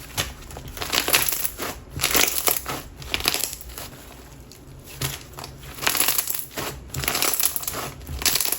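Jelly slime packed with lava rocks being squeezed and pressed by hand, giving bursts of gritty crunching and crackling from the rough rocks rubbing in the jelly, with a quieter pause about halfway through.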